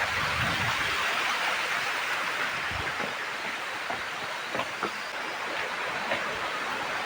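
Steady rush of fast-flowing river water, with a few faint low knocks about halfway through.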